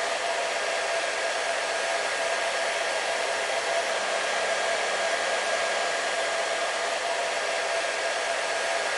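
Hair dryer running steadily: an even rushing of air with a constant motor whine over it.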